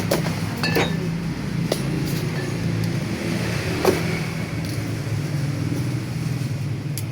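A steady low mechanical hum, with a few light clicks and clinks.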